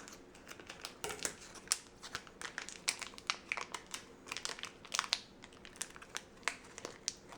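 Small plastic packet crinkling and crackling in irregular bursts as fingers work it open to free the ring, part of the bag stuck fast where it has melted and sealed.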